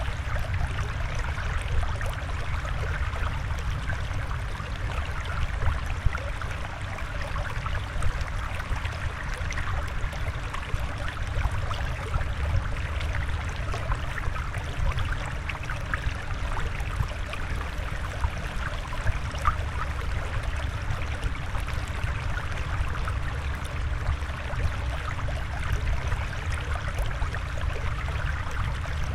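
Steady flowing, trickling water with a fine bubbling crackle over a low, even rumble, unchanging throughout.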